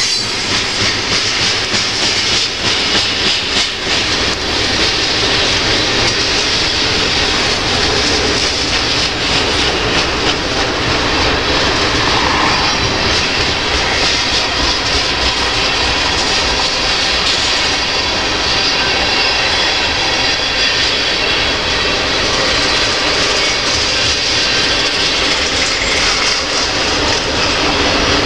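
Loaded freight cars, covered hoppers and tank cars, rolling past close by: a steady loud rumble and rattle of steel wheels on the rails. Wheel clicks over the rail joints are heard in the first few seconds.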